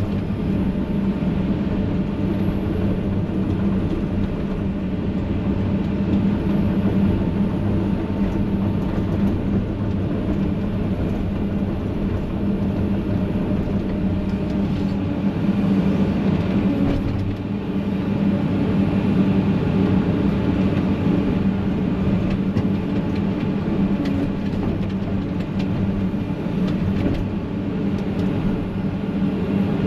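Heavy diesel engine of an excavator running steadily at working speed, a continuous low drone that rises and falls slightly in the middle.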